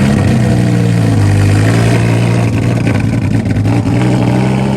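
A loud car engine and exhaust running at a fairly steady pitch, wavering a little in the middle.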